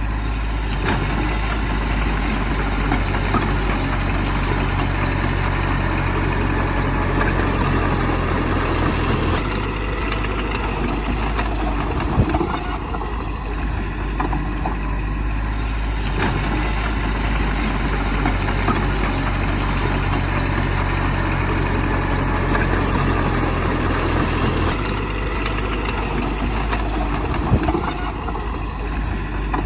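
Bulldozer's heavy diesel engine running steadily, its note shifting about a third of the way in and again near the end, with two sharp knocks.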